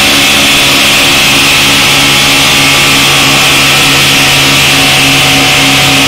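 Turbocharged 1.8 Rover K-series four-cylinder in an FSO Polonez running on a chassis dyno at a steady pitch. It is very loud and distorted on the microphone.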